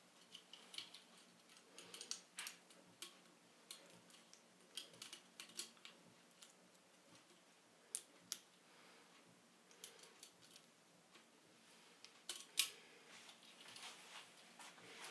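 Faint, scattered clicks and light scrapes of small hard parts being handled, irregular throughout, with a sharper click about twelve seconds in.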